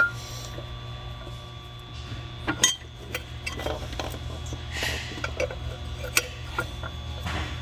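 Irregular light metallic clinks, taps and a short scrape of hand tools and metal engine parts as the oil separator and its gasket are worked into place on the engine, over a steady low hum.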